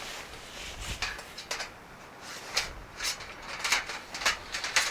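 Irregular clinks and knocks of metal parts being handled and fitted together while a campfire stand is assembled.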